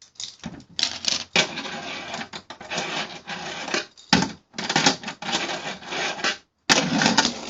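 Wooden fingerboard's wheels rolling and grinding across a Tech Deck ramp in runs of a second or two, with sharp clacks of the board hitting the ramp, about four seconds in and again near the end. Kind of noisy.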